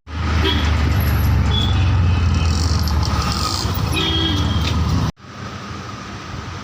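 Loud low rumble of a moving vehicle with a few brief squeals over it. It cuts off abruptly about five seconds in, and a quieter running rumble follows.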